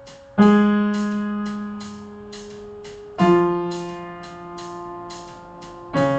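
Piano playing the D-flat major arpeggio downward in slow whole notes: three notes struck about three seconds apart, each lower than the last and each fading away. A light tick sounds about twice a second.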